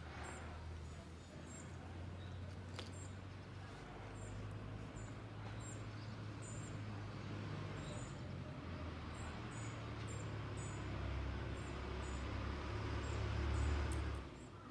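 Small wild birds giving short, high chirps again and again, over a steady low rumble.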